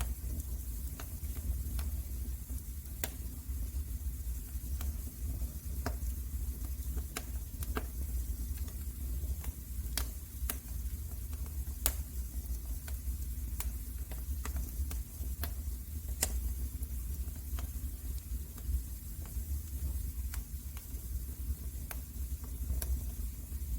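Wood fire burning in a fireplace, crackling with irregular sharp pops over a steady low rumble and hiss.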